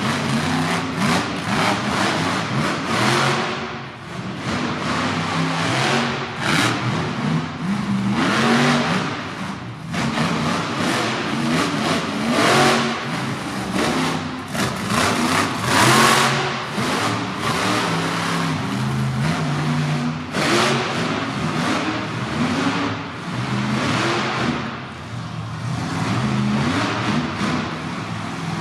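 Monster truck engine revving hard and repeatedly, its pitch climbing and dropping with the throttle, with sharp bangs mixed in throughout.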